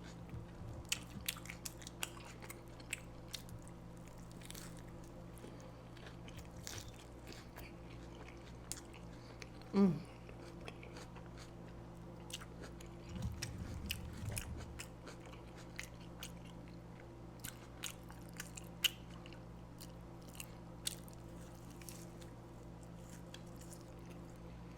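Close-miked chewing of a burger: wet mouth clicks and light crunches scattered throughout. A short falling hum comes about ten seconds in, and a low rumble follows a few seconds later.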